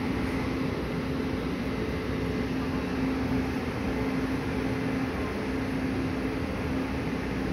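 Steady hum of a passenger train hauled by an electric locomotive at a station platform, with a constant low tone and no change in pitch or level.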